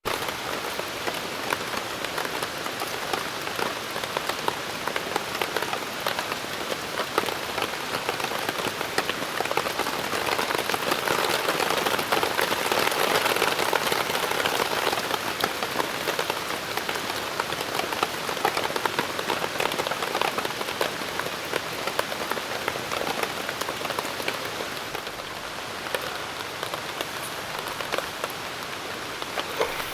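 Steady rain falling, a dense hiss full of small drop ticks, heaviest around the middle and easing a little near the end.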